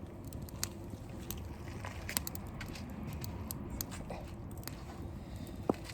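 Wood fire crackling, with irregular sharp snaps and pops over a steady low rumble, and one louder pop near the end.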